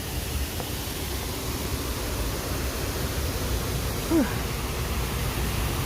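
Steady rush of water falling down a cascading water wall, an even noise with a low rumble underneath. About four seconds in, a brief falling voice sound.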